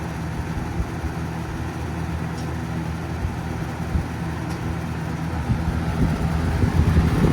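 Mid-to-late 1980s Sears box fan running steadily on high speed: a low electric-motor hum under a steady rush of moving air, with some irregular low thumps near the end.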